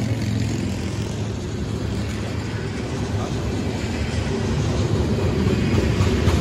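Freight train of covered hopper cars rolling past close by: a steady rumble of steel wheels on rail that grows louder toward the end.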